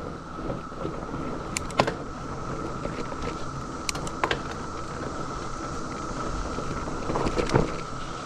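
Mountain bike riding a dirt trail, heard from a bike-mounted or helmet camera: steady rumble of tyres and wind, with sharp rattles and knocks from the bike over bumps in three bursts, the last the loudest. A steady drone of cicadas runs underneath.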